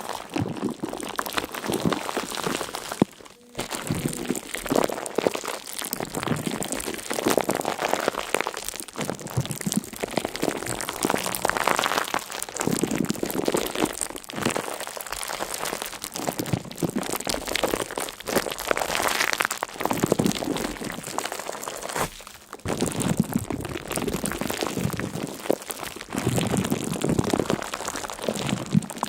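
Dense crackling, crunching noise that swells and fades in waves, with brief drop-outs about three seconds in and again near twenty-two seconds.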